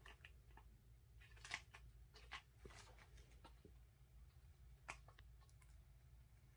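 Faint, scattered small clicks and scrapes from Highlander kittens moving about, over a low steady room hum.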